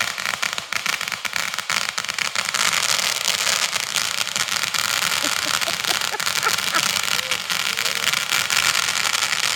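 Fireworks crackling: a dense, steady stream of rapid small pops with no single big bang standing out.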